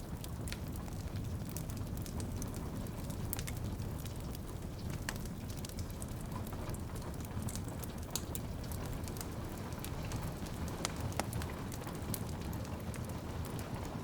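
Wood fire crackling and popping in a fireplace over a steady low rumble, with rain pattering and dripping on a window. Sharp pops and ticks come at irregular intervals.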